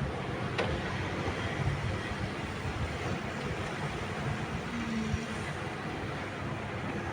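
Cat 306E2 mini excavator's diesel engine running steadily under work, with a single sharp knock about half a second in.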